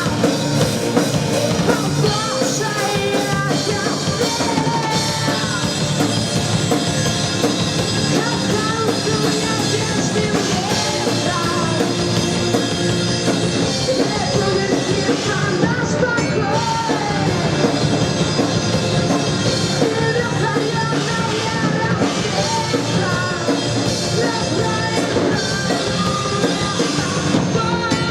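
Live alternative rock band playing loud and steady, with drum kit, distorted guitars and a singer.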